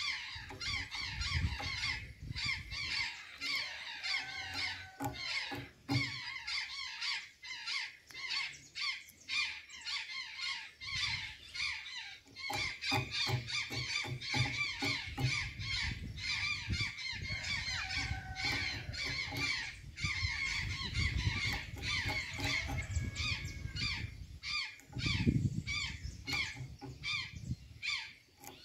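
Azure jays calling, many calls in quick succession overlapping one another.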